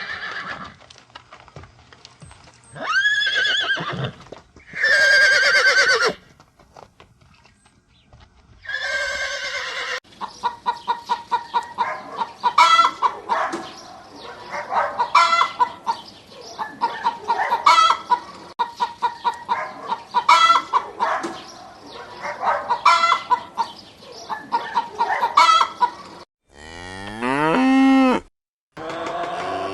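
A run of farm animal calls: a few separate pitched calls in the first ten seconds, then a long stretch of bursts of rapid short notes repeating about every two and a half seconds, much like domestic fowl, then a call that rises in pitch near the end.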